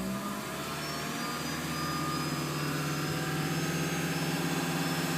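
2011 Toyota Prius's 1.8-litre four-cylinder engine running with the accelerator floored, held at its capped top revs. The pitch climbs over the first second, then holds steady until it starts to drop near the end.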